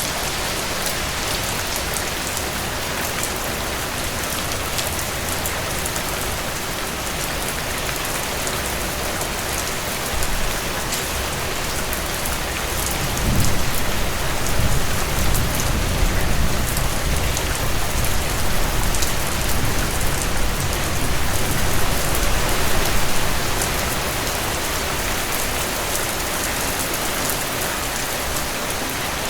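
Heavy rain falling steadily and hitting the cabin porch. About halfway through, a low rumble of distant thunder builds and rolls on for around ten seconds before fading back under the rain.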